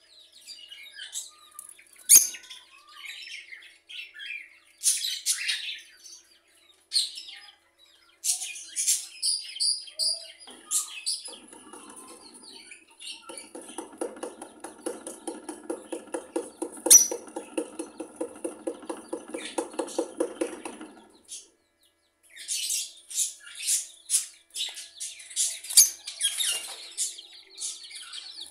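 Birds chirping and calling in short, high notes. From about 11 to 21 seconds in, a lower, rapidly pulsing call with several pitches runs under the chirps.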